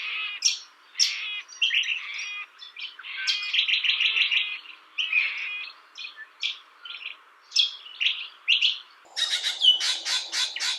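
Parrots calling: a rapid run of short, shrill calls, some in quick repeated series, with a different recording of calls taking over about nine seconds in.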